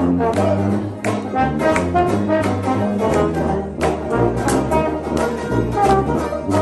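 Brass band playing an instrumental jazz-style tune, with horns carrying the melody over a walking bass line and a steady beat.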